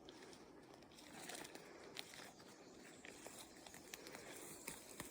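Near silence, with faint scattered crackles and rustles.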